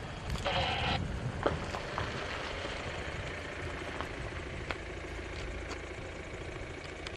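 Engine running steadily, with scattered clicks and knocks.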